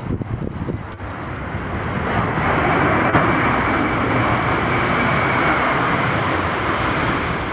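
Jet airliner's engines passing close while landing, building from about a second in to a loud, steady rush that eases slightly near the end. Gusty wind buffets the microphone at the start.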